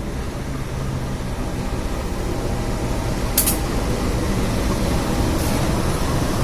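Penataran passenger train running: a steady low rumble of wheels and engine that grows slightly louder, with a short sharp click about three and a half seconds in.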